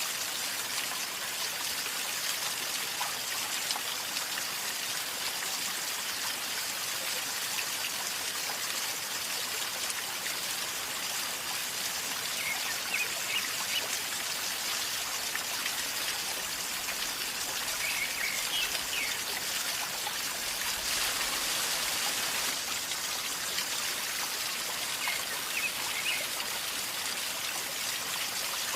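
River flowing calmly with a steady gurgling rush. A few faint high chirps come through at three points.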